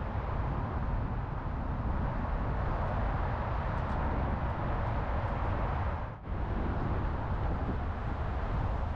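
Austin Healey's 215 cubic-inch aluminum Oldsmobile V8 running steadily, with a brief dip in sound about six seconds in.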